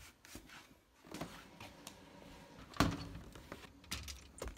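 Quiet room with scattered faint knocks and handling noises, and one louder thunk a little under three seconds in.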